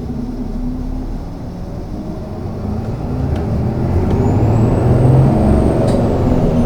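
City bus engine and drivetrain heard from inside the cabin, growing louder about halfway through as the bus pulls away and gathers speed. A faint high whine rises in pitch over a couple of seconds, with a few light clicks.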